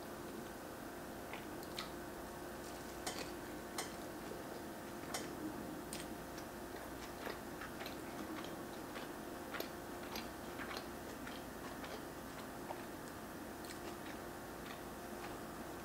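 A person chewing a mouthful of cheeseburger with her mouth closed, close to the microphone: soft, irregular wet mouth clicks, with a steady faint hum under them.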